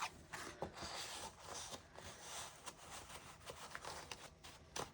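Cardstock pages and flaps of a handmade paper album being handled: soft rustling with scattered light clicks and taps.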